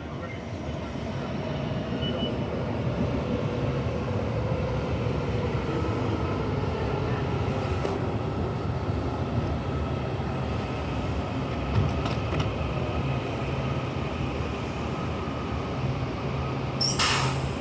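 Washington Metro Red Line train running in the station, its wheel and motor noise growing louder over the first few seconds and then holding steady, with a faint, slowly falling whine. A short, sharp hiss sounds near the end.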